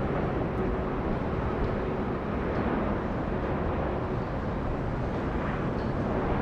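Jet airliner engines heard at a distance: a steady, even noise with no break.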